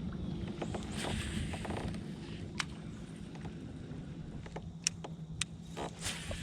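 Kayak under way, its hull and gear creaking and knocking, with a few sharp clicks over a steady low hum.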